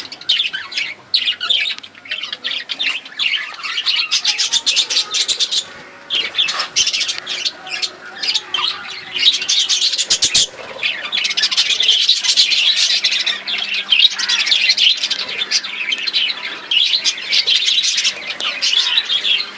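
A flock of caged budgerigars chattering, chirping and squawking without a break. About halfway through there is a brief rattle of a few sharp knocks.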